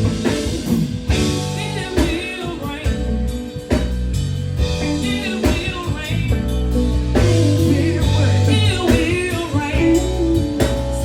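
A woman singing a blues-soul song with bending, wavering vocal runs over backing music with bass and drums.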